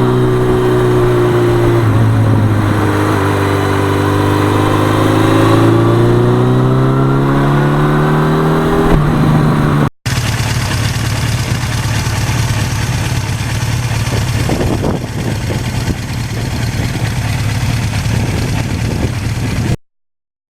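1982 Suzuki GS1100E's inline-four engine running on the road, its pitch dipping and then climbing steadily as the bike accelerates. After a brief break about ten seconds in, rushing wind noise over the engine until the sound cuts off sharply near the end.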